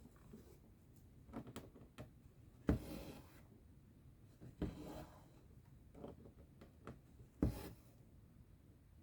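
Cross-stitch needle pricking through stretched fabric with small sharp ticks, each followed by a brief rasp of thread being drawn through. Three ticks are louder, with softer ones between.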